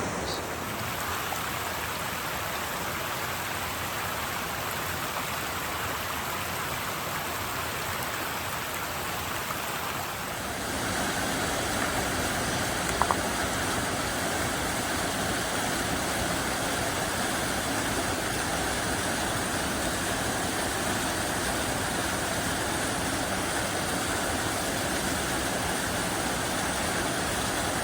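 Mountain creek rushing, a steady wash of water noise that becomes a little louder and fuller about ten seconds in. One short click comes a few seconds after the change.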